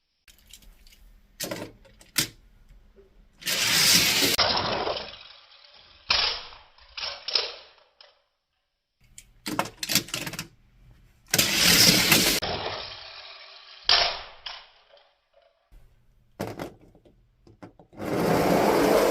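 Die-cast toy trucks and cars clattering down a plastic track and crashing together, three times. Each round opens with a few sharp clicks, then a loud rattle about a second long that trails away.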